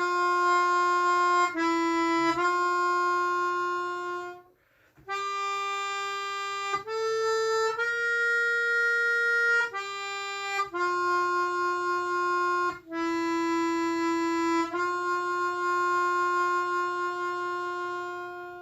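Slow solo melody on a harmonica, one note at a time with long held notes. There is a short break about four and a half seconds in, and it ends on a long held note.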